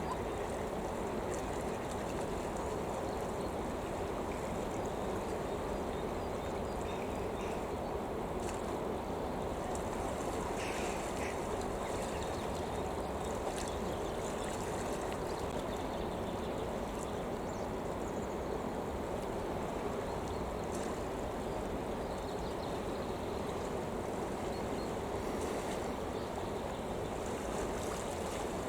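Steady rushing of flowing water, even throughout, with a few faint short sounds above it about a third of the way in.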